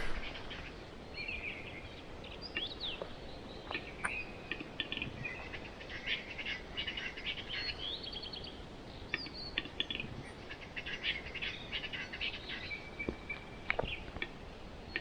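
Small birds chirping and calling: many short, high chirps and a few rising and falling whistled notes, over a faint steady hiss.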